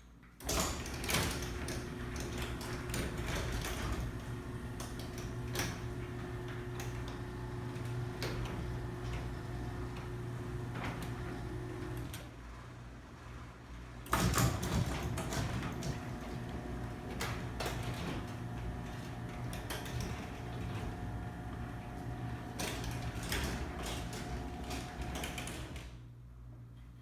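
Garage door opener running the door through its travel: a steady motor hum with rattling clicks, in two runs of about twelve seconds each with a short pause between. The second run carries a higher-pitched hum.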